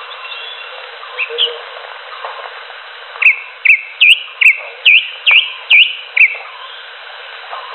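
Green leafbird (cucak hijau) calling: a couple of short notes, then a quick run of about nine sharp, sweeping whistled notes in the middle, over a steady hiss.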